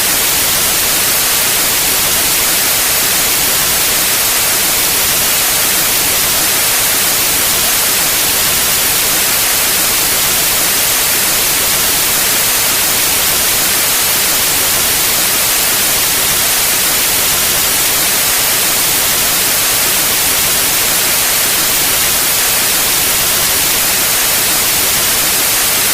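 Steady white noise: an even, unchanging hiss spread across the whole range, strongest in the highs.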